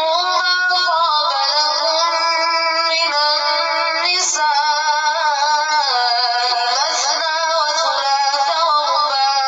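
A single voice chanting Quranic recitation in long, drawn-out melodic notes that slide up and down in pitch.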